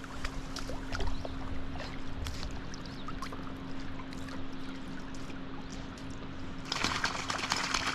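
Lake water lapping and dripping around a paddleboard, with small scattered splashes and a faint steady hum. About seven seconds in, a louder, denser splashing begins, as of a dog swimming close by.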